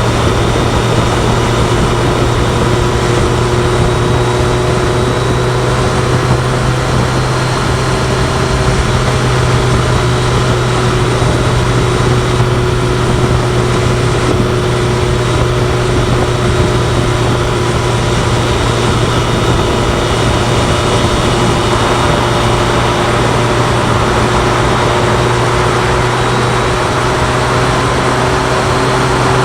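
BMW K1100LT motorcycle's inline-four engine running at a steady speed, its drone holding one unchanging pitch, over an even rush of wind and road noise.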